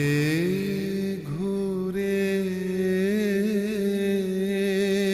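A singer's voice holding one long, drawn-out note with a slight waver, with a brief break in the note about a second in.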